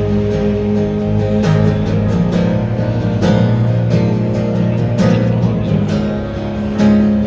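Live band playing an instrumental passage of a Cantopop song: strummed guitar chords every second or two over sustained low notes, with no singing.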